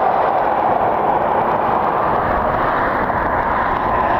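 Jet airliner engines running, a loud steady rush whose pitch slowly shifts and climbs a little near the end.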